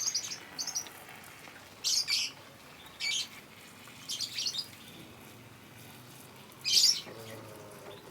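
Lovebirds giving short, shrill chirps, about six calls at irregular intervals, the loudest one near the end.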